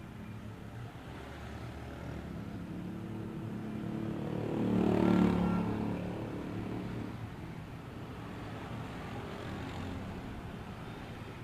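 A motor vehicle passing close by: its engine and road noise build up, peak about halfway through, then fade away.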